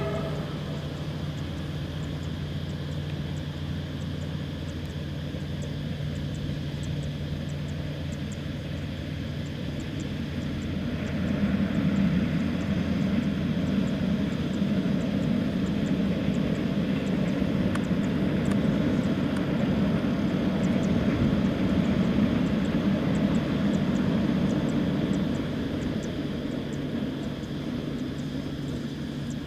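Diesel-hauled passenger train passing at a distance: a steady low engine drone, joined about a third of the way in by the louder rumble of the carriages rolling by, which eases off near the end.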